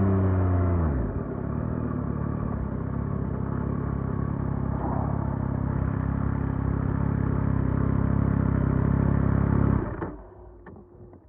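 2024 Yamaha MT-09 SP's inline three-cylinder engine on its stock exhaust: revs fall to idle about a second in, it idles steadily, then it is switched off near the end, followed by a few faint clicks.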